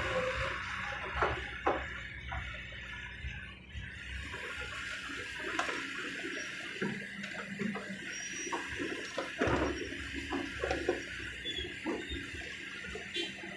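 Kobelco SK200 excavator loading a dump truck: a steady rushing sound of loose material, with scattered knocks over a low engine rumble.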